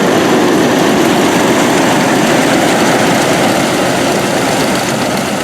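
Heavy engine of vintage farm machinery running steadily with a dense mechanical clatter, starting to fade out near the end.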